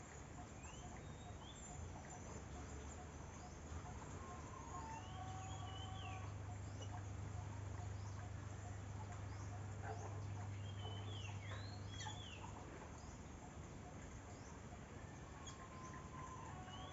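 Scattered bird chirps and short whistled calls over faint outdoor background noise, with a steady low hum in the middle that stops about 12 seconds in.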